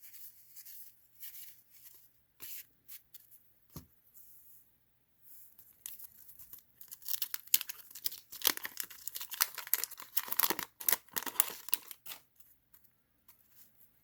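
Scattered light clicks of cards being handled, then from about seven seconds a dense stretch of crinkling and tearing of a 1990 Fleer wax-paper card pack wrapper, which stops about two seconds before the end.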